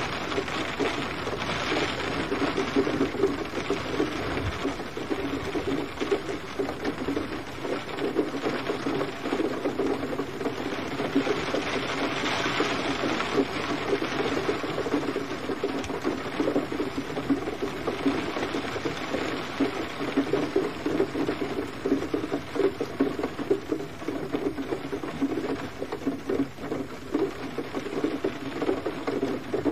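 Steady gentle rain: a dense, even patter of many raindrops.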